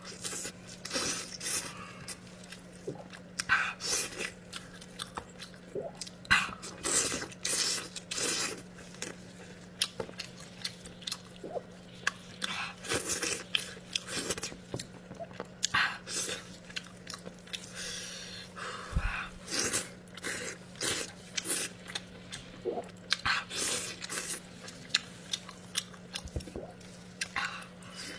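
A person eating close to the microphone, with repeated chewing and biting sounds coming irregularly throughout. A faint steady low hum runs underneath.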